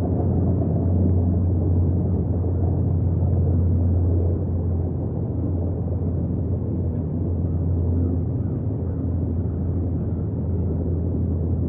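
Wind buffeting an outdoor nest-camera microphone: a steady low rumble, easing a little about four seconds in.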